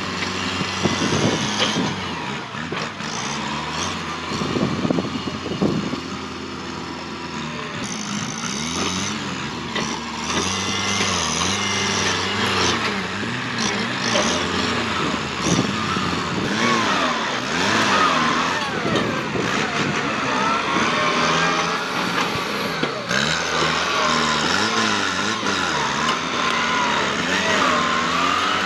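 Kubota tractor's diesel engine working under load, its speed rising and falling again and again as it pushes through bush.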